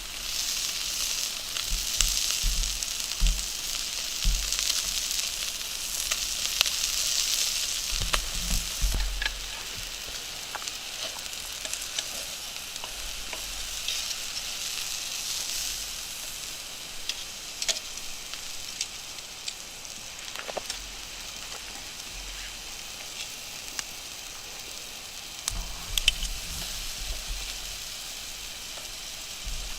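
Meat sizzling over an open wood fire, a steady hiss with scattered crackles and pops from the burning wood. The hiss is louder for the first several seconds and then eases. There are a few low thumps near the start, about eight seconds in and near the end.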